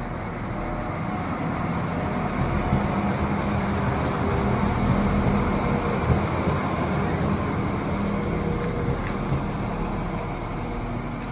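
A train running through the station: a low rumble with a few steady tones that swells to its loudest about halfway through and then slowly fades away.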